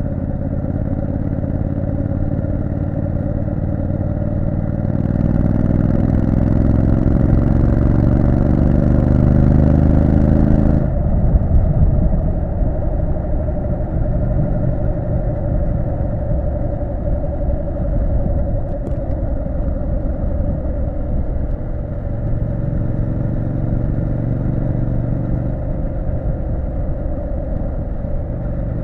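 Triumph Street Scrambler 900's parallel-twin engine running on a ride. About five seconds in it pulls with rising pitch and grows louder, then cuts off abruptly about eleven seconds in to a rougher, lower sound, and the steady engine note comes back in the last several seconds.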